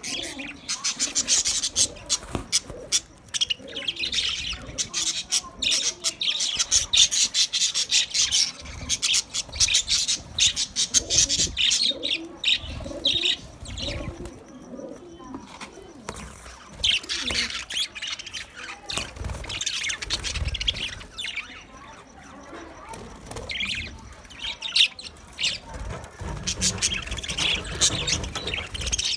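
A flock of Australian parrots (budgerigars) chattering and chirping in quick, dense runs, with a couple of brief lulls.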